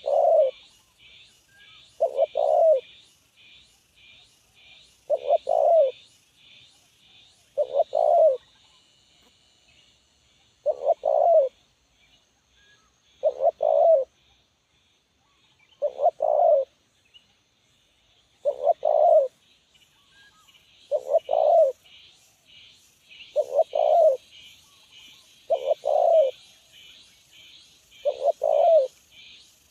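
Spotted dove (tekukur) singing its medium-pitched cooing song, the same short phrase repeated about every two and a half seconds. A fast, faint, high pulsing runs underneath throughout.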